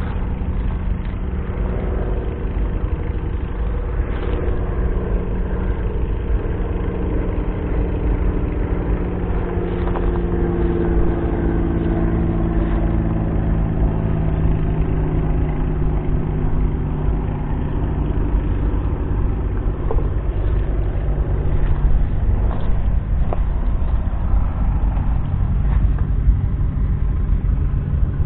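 McCormick X7.690 tractor's 6.7-litre six-cylinder diesel engine running steadily, its pitch sagging gently about a third of the way in and then holding.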